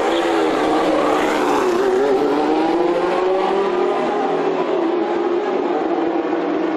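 2016 Formula One car's turbocharged V6 hybrid power unit running at high revs, its pitch wavering and dipping briefly about a second or two in, then holding steady.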